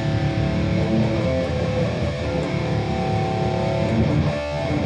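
Electric guitar played through a Boss Katana Gen 3 212 amp, strumming sustained, ringing chords. A new chord is struck near the end.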